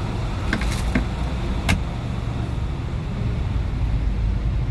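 Steady low engine rumble, with a few sharp clicks and knocks in the first two seconds.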